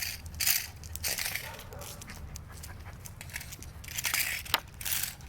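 German Shepherd biting and shaking a toy snake: irregular crunching and rustling, with a sharp click about four and a half seconds in.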